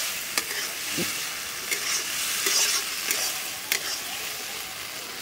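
Peas and tomato masala sizzling in a kadhai as they are stir-fried, with a metal spatula scraping and knocking against the pan a few times.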